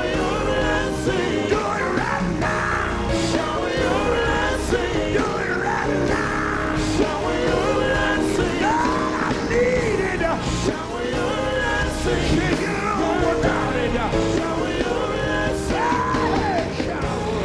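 Live gospel quartet music: the band plays on while a lead voice sings and shouts gliding, wavering ad-libs over it.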